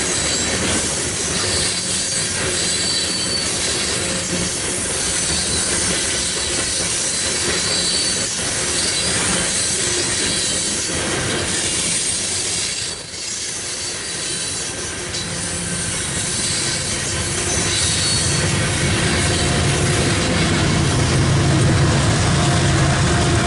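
Freight train cars rolling past with steel wheels squealing on the rail. A deeper rumble builds over the last few seconds.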